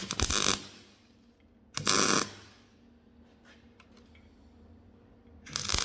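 MIG welder striking an arc in three short crackling bursts of tack welding: one at the start, one about two seconds in and one near the end.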